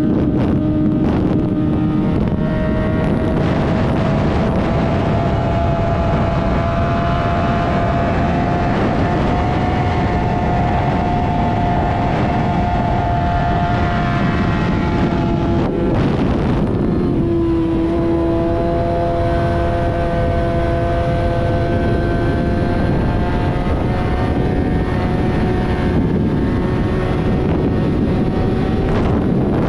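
Motorcycle engine running at speed under a steady rush of noise, its note rising slowly; about halfway through the note breaks off and drops, then climbs again.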